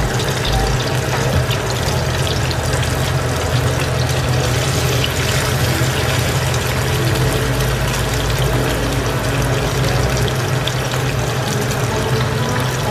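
Soy bean curd sheets frying in oil in a wok: a steady sizzle with light crackles, over a low steady hum.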